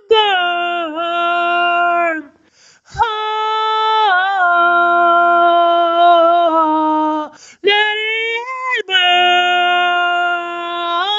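A woman's voice singing long held notes without words, gliding into each one, in the song's outro. The notes break off briefly about two seconds in and again about seven and a half seconds in.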